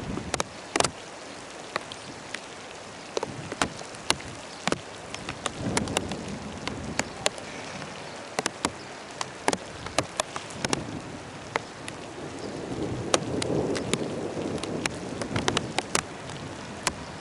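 Steady rain falling, with many sharp, irregular taps of large drops hitting a hard surface close by. A low rumble swells and fades twice, typical of distant thunder.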